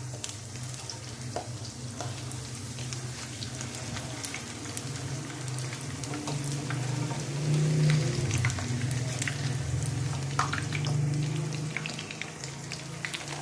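Potato chapli kebabs shallow-frying in hot oil in a nonstick pan, a steady sizzle full of small pops and crackles, as a spatula flips them to fry the second side. A low steady hum sits underneath.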